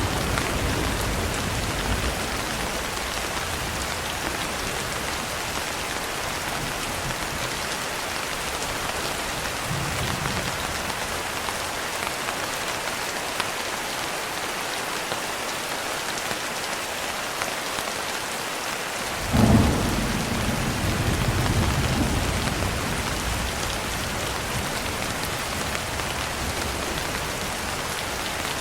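Steady rain falling, with a low rumble of thunder dying away in the first couple of seconds. About two-thirds of the way through, a sudden clap of thunder breaks out and rolls on for a few seconds before the rain carries on alone.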